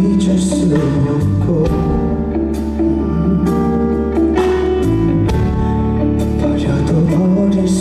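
Live band music with a male voice singing a slow song over the accompaniment, with regular percussion strikes.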